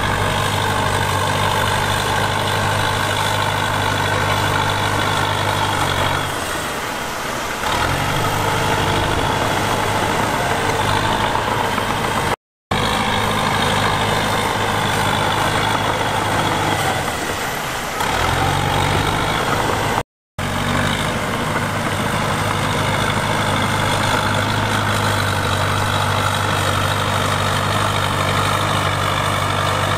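Heavy diesel engine of earthmoving equipment running steadily, its deep note sagging briefly twice. The sound cuts out completely twice for a split second.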